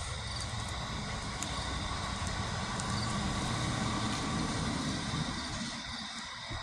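Safe-and-sane fountain firework spraying: a steady rushing with a few sharp crackles, easing off near the end.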